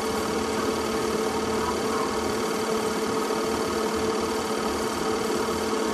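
A small motor running with a steady hum at one constant pitch, without changes in speed.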